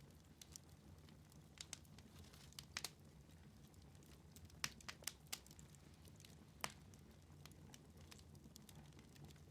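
Wood fire in a fireplace crackling: scattered sharp pops and snaps, a few at a time, over a faint steady low hum.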